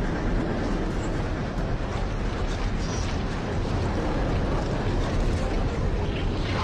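Floodwater rushing in a steady, loud wash of noise that is heaviest in the deep end.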